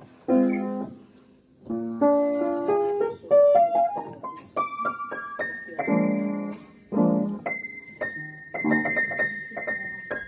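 Background music played on piano or electric keyboard: a run of notes climbing in pitch, then held chords with a high note sustained over them.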